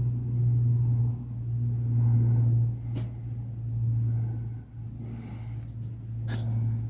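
A person breathing through the nose close to the microphone, several slow breaths over a steady low hum, with a couple of small clicks from handling parts.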